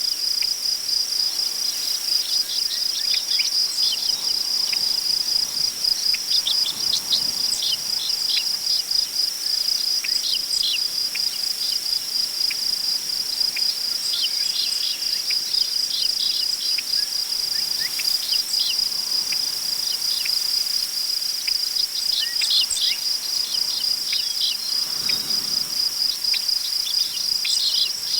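Crickets chirping in a steady, fast pulsing chorus, with scattered short bird chirps over it and a faint swell of wind in tall grass about a quarter of the way in and again near the end.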